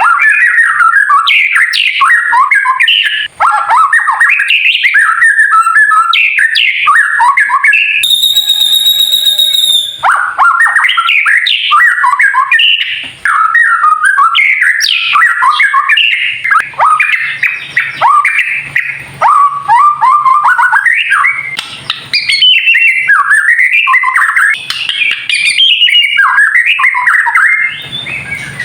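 White-rumped shama (murai batu) singing a loud, fast, varied song of quick chirps and whistled phrases. About eight seconds in, the song gives way for about two seconds to a steady, buzzy note with many overtones, then resumes.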